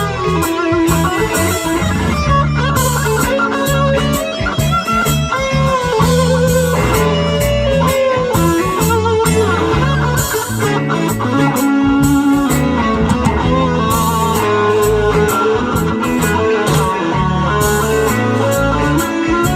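A band playing an instrumental passage. An electric guitar carries a gliding, sliding melody over a bass guitar line that changes note every second or so, with repeated bright cymbal strokes.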